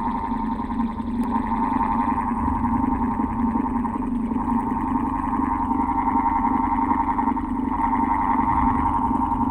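Old electric fan running steadily: an even hum with a fluttering whirr over it.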